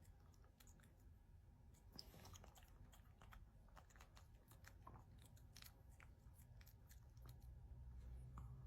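A dog chewing its food: faint, irregular crunching clicks.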